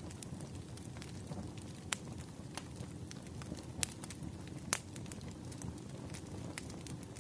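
Wood fire crackling: a steady low rumble of burning logs with scattered sharp pops, the strongest about two, four and five seconds in.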